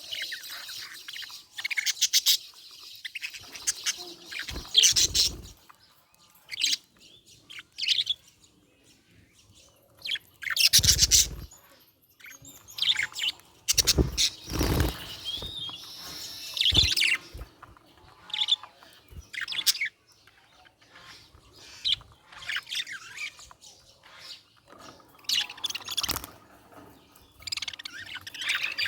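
Budgerigar chirping and chattering in irregular bursts of short, high chirps, with a few louder bursts about a third and halfway through.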